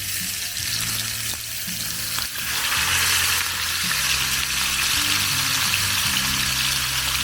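Steaks sizzling as they cook, a steady frying hiss that grows louder about two and a half seconds in.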